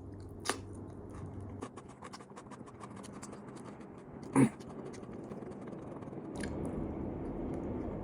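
Close-miked chewing of food, with small wet clicks and crunches. There is a sharp knock about half a second in and a louder one about four and a half seconds in.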